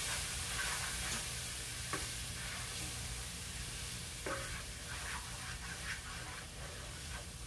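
Ginger-garlic and spice paste with green chillies sizzling in oil in a nonstick frying pan while a spatula stirs it, frying the masala down. There are a few sharper scrapes of the spatula against the pan.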